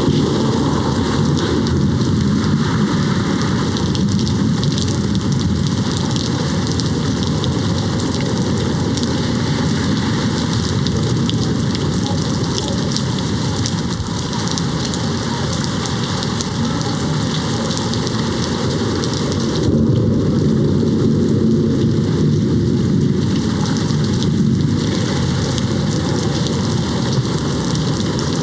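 Steady heavy rain pattering on a window, a dense crackle of drops over a low rumble of distant thunder, growing slightly louder about twenty seconds in.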